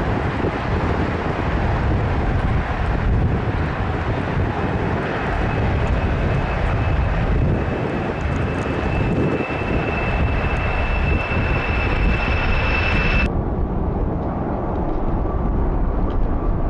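Jet airliner engines running at high power: a heavy, steady rumble with a thin high whine over it. About thirteen seconds in, the sound cuts to a duller recording of the same kind of jet noise.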